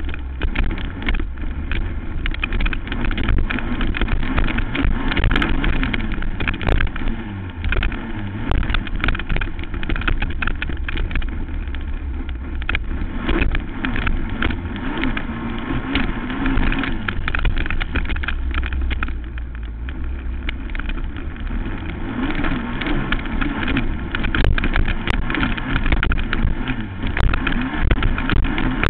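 Racing quad (ATV) engine running hard through a motocross moto, its pitch rising and falling as it revs and shifts, with frequent knocks and clatter from the bumps.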